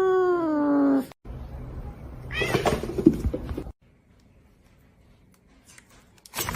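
A domestic cat's long, drawn-out meow that ends about a second in, then a shorter meow over background noise around two to three seconds in, followed by a stretch of near silence.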